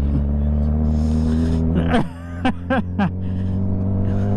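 Motorcycle engine running at steady revs under way. Its low note drops off abruptly about two seconds in, then runs on at a steady pitch, with a few short sweeping chirps over it.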